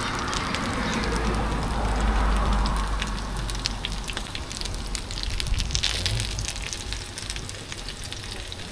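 Food sizzling and crackling on a hot griddle, with a low rumble under it for the first few seconds.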